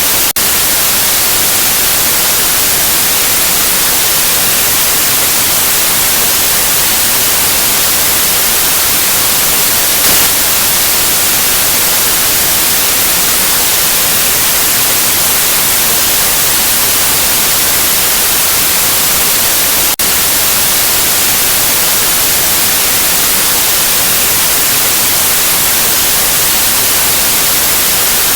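Steady, loud white noise: an even, unbroken hiss with most of its weight in the high frequencies. It carries two faint ticks, one near the start and one about two-thirds through.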